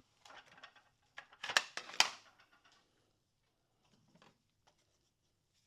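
Close handling noises: short rattles and clicks of hard objects being handled, with two sharp clicks about a second and a half and two seconds in, then a few faint ticks.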